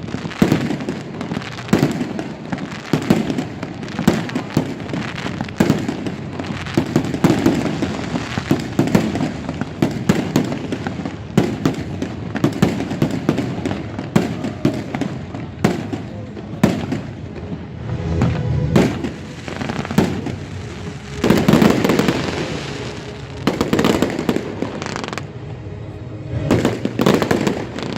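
Fireworks display: a continuous rapid barrage of bangs and crackles, with heavier booms about three-quarters of the way through.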